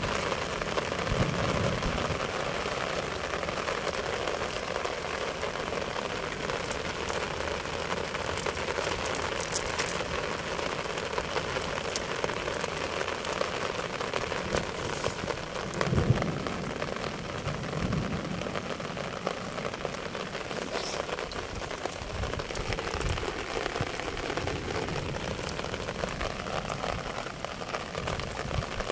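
Steady rain falling on wet grass and ground, with a few dull thumps, the loudest about halfway through.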